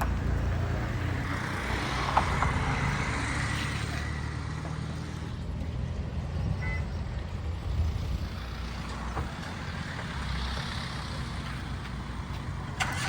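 Road traffic: a steady low engine rumble of motor vehicles, with a hiss of tyres over it.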